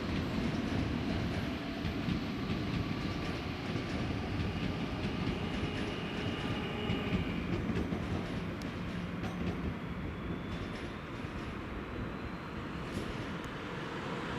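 A passenger train moving slowly over the station tracks: a steady rolling rumble with wheels clacking over joints and points, and a few faint, brief wheel squeals.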